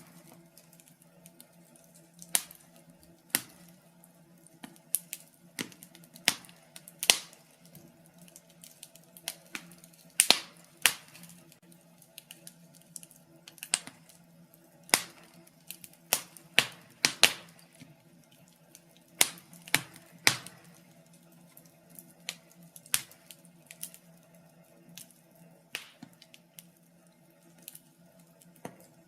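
Wood fire in a fireplace crackling, with irregular sharp pops and snaps of varying loudness, one or two a second, over a faint steady low hum.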